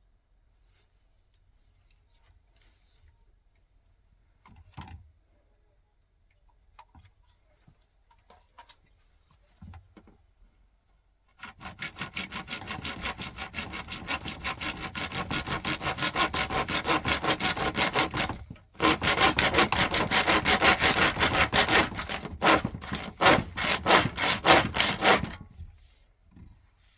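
A hand saw cutting in fast, even back-and-forth strokes. It starts after a few light knocks, stops briefly about two-thirds of the way through, then carries on and stops near the end.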